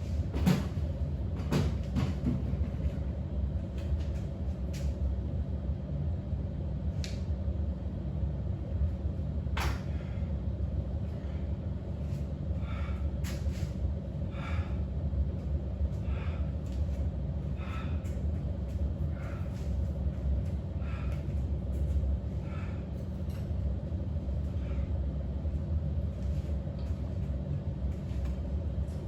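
A steady low rumble, with a few sharp knocks in the first ten seconds. From about twelve seconds in, a person's breaths come roughly every second and a half as he recovers from a set.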